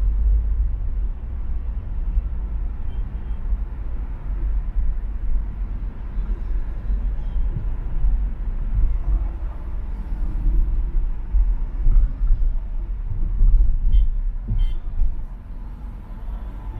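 A car driving along an expressway in traffic: a steady low rumble of engine, tyres and road that rises and falls a little in loudness throughout.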